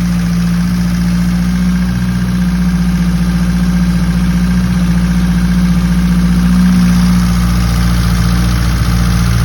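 Engine idling with a steady, unchanging hum that swells slightly about two-thirds of the way through.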